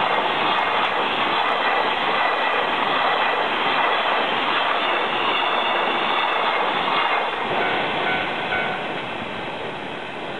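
A train passing close by at speed, its wheels running on the rails in a steady loud rush. Near the end the rush fades as the last cars go by, and a level-crossing alarm rings on.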